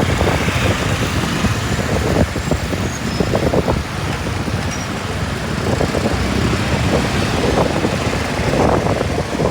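Steady road and traffic noise heard while riding a motorbike through city streets.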